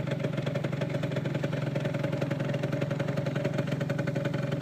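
Yamaha Zuma 49cc scooter engine running steadily under load as it climbs a hill slowly. The drone holds one pitch, with a fast, even pulse.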